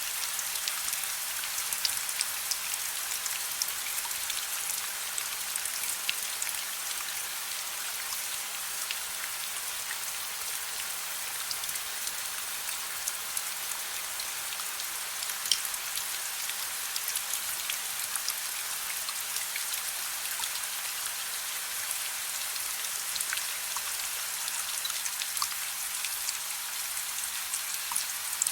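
Soft, steady rain: an even hiss of falling rain with many single drops ticking sharply and close.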